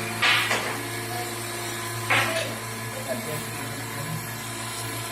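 A machine tool running with a steady low hum, with two short hissing noises about two seconds apart, the first near the start.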